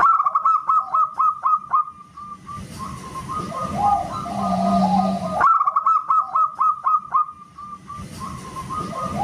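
Perkutut (zebra dove) singing a loud, whistle-like song. A quick run of short hooked coos lasting about two seconds is followed by a lower warbling phrase, and the pattern starts again about five and a half seconds in.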